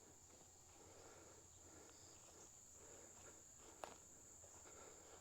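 Faint, steady high-pitched trilling of insects, with soft scuffs and one sharp click a little under four seconds in.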